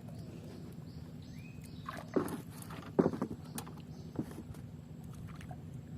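Two sharp knocks about a second apart, then a fainter third, over a steady low background noise.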